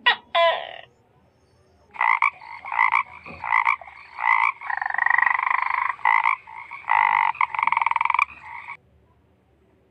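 Frog croaking: a series of loud, rasping croaks, some short and some drawn out, with brief gaps between them.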